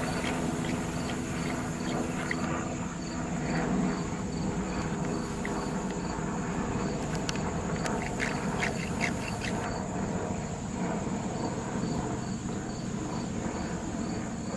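Crickets chirping steadily, about twice a second, with a steady high insect trill, over the low drone of a helicopter whose humming tone drops out about four seconds in.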